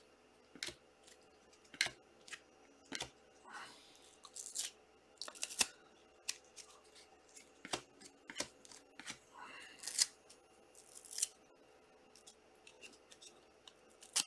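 Trading card pack being opened and handled: the foil wrapper crinkling and tearing, with scattered short clicks and snips of cards and wrapper being handled.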